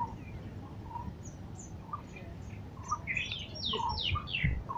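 Several birds chirping and calling, with a run of quick falling notes about three seconds in.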